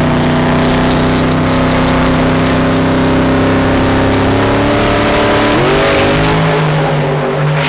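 Twin-turbo Hemi V8 of a Plymouth 'Cuda drag car held at steady high revs with a broad hiss over it. About five and a half seconds in the pitch steps up, and then the note starts to pulse.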